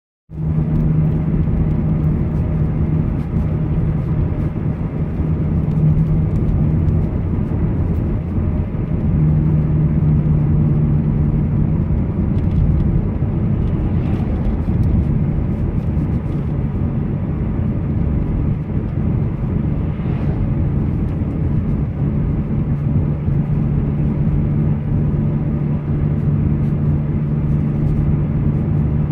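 Car driving on a highway in a storm-force wind: steady road and wind noise under a low engine hum that grows stronger and fades again a few times.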